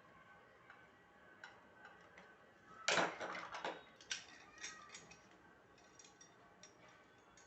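Metal parts clattering as they are handled, with a loud clatter about three seconds in followed by a scatter of sharp clicks and clinks.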